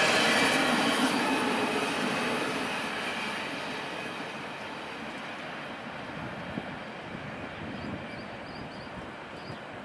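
A train's cars rolling past on the rails with some wheel squeal, the sound fading steadily over the first few seconds as the train moves away. A bird chirps a few times near the end.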